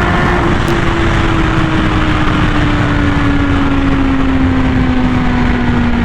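Honda Fireblade RR-R SP's inline-four engine, breathing through an SC-Project titanium exhaust, running at a steady high speed with its note slowly easing lower, under heavy wind rush.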